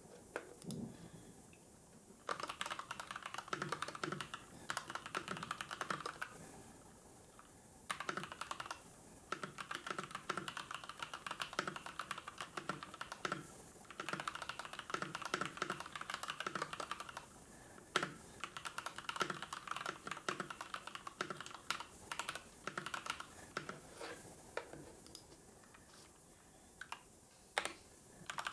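Computer keyboard typing in runs of fast keystrokes lasting a few seconds each, broken by short pauses, with a few single clicks near the end.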